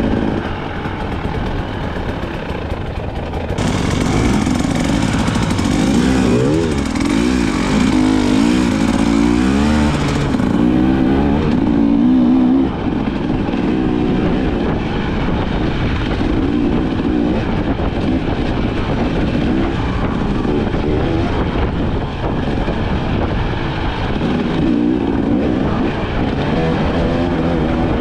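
KTM 300 XC-W two-stroke single-cylinder dirt bike engine running under way, the revs rising and falling repeatedly in the first half, then holding steadier.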